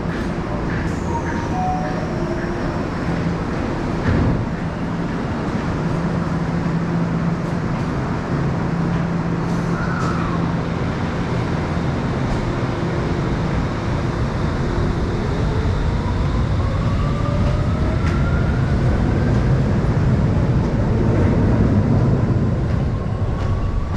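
Tokyo Metro 17000 series electric train at a station platform: a steady low hum, then, from about two-thirds of the way in, a rising whine from its traction motors as it speeds up. A brief knock about four seconds in.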